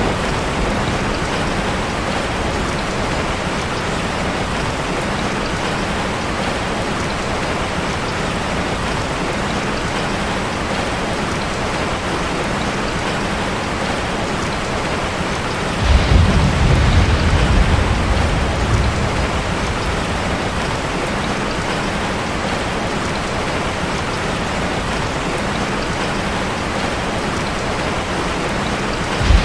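Steady heavy rain drumming on a metal roof. About halfway through, a sudden low rumble of thunder lasts a few seconds.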